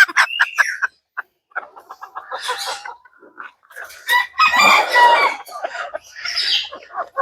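Chickens clucking and a rooster crowing: a run of short calls, with a longer crow about four seconds in.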